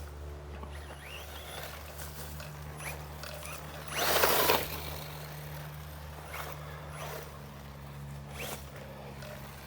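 HBX Firebolt 1/12-scale brushless RC buggy driving on dirt, mostly faint. About four seconds in there is a short, louder rush of its tyres spinning and throwing dirt, with a few fainter scrapes later.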